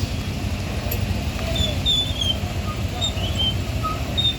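Low, steady rumble of vehicle engines on the road, with birds giving short high chirps from about a second and a half in.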